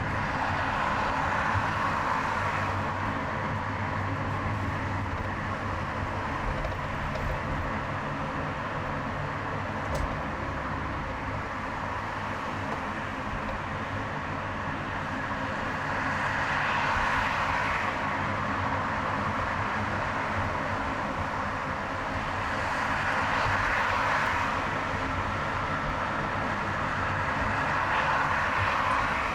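Steady road and tyre noise of a car driving on a highway, with low engine rumble. The noise swells up and eases back several times.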